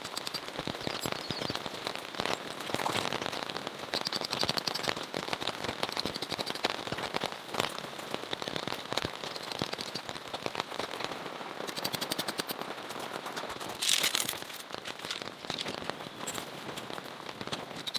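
Steady rain with a dense patter of sharp drop taps over a hiss, and a brief louder rush about fourteen seconds in.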